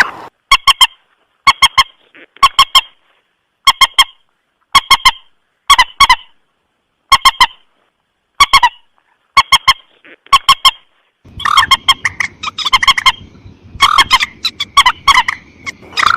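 Recorded lure call of the mandar sawah, a rail: short, sharp, honking notes in quick clusters of two or three, repeating about once a second. About 11 seconds in, the calls come thicker and faster over a background hiss.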